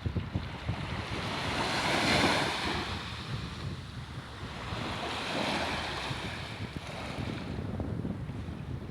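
Sea waves surging and washing in, two swells rising and falling in turn, with wind buffeting the microphone.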